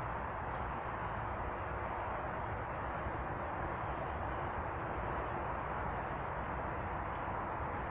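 Steady outdoor rushing noise, even throughout, with two or three faint short high chirps around the middle.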